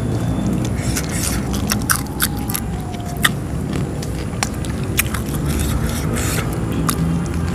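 Crunchy chewing and biting of food close to the microphone: a string of sharp, irregular crunches and clicks over a steady low rumble.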